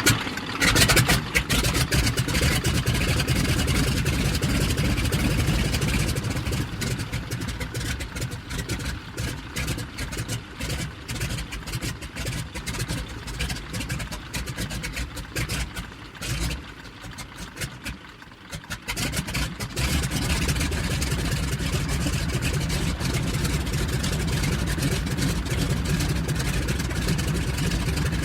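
Biplane's piston engine catching with a loud start and running steadily, then sputtering unevenly and sagging for about thirteen seconds before picking back up to a steady run near twenty seconds in.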